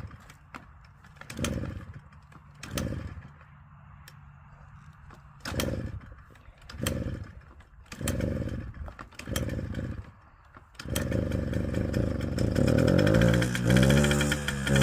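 Old dirt bike engine being cranked in a series of short start attempts that don't catch. About eleven seconds in it fires and keeps running, revving higher near the end. It is a hard start on a roughly 50-year-old bike that has sat unused for seven months, running on freshly added gas.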